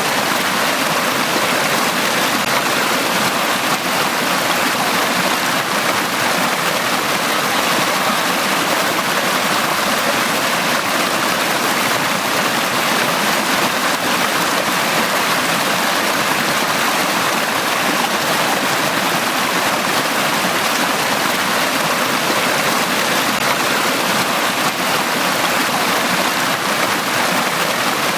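Forest stream running steadily over rocks, a continuous rushing and splashing of water.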